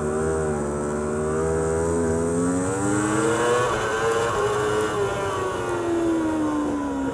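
Superbike's racing engine heard from onboard the motorcycle, its pitch climbing under acceleration a few seconds in and then falling steadily as the revs drop.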